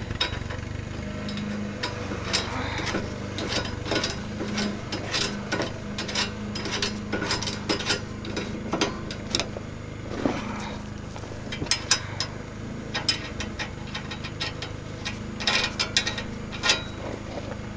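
Irregular metallic clicks and taps from hand tools and bolt hardware as the plow's lift linkage is fastened on, over a steady low hum.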